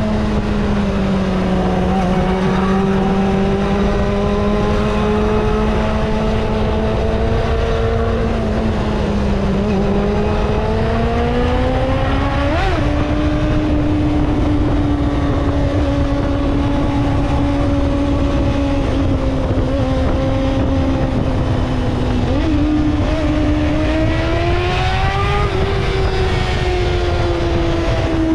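Kawasaki ZXR250 inline-four engine pulling at steady high revs while riding, over a low rush of wind. The engine note climbs about ten seconds in, holds, climbs again near the end, then eases off.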